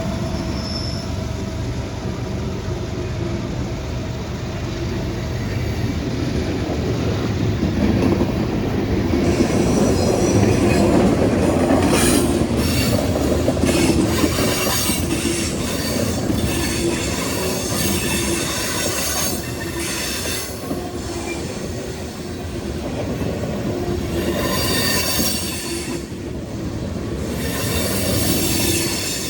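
Freight train cars rolling past at close range. A steady rumble runs throughout, with high-pitched steel wheel squeal and clacking over the rails coming and going from about ten seconds in.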